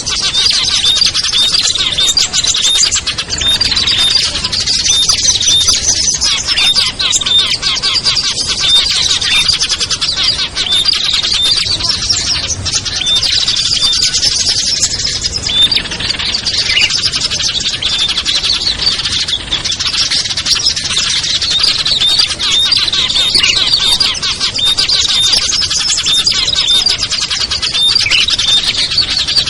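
A dense, unbroken chorus of small songbirds giving rapid, high-pitched repeated chirps and twitters, from a bird-lure (pikat) recording used to call wild small birds down.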